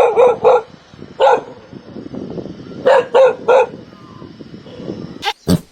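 A dog barking in short, sharp barks: a quick run at the start, a single bark about a second in, and three more in quick succession about three seconds in. Near the end come two short, sharp sounds of a different kind.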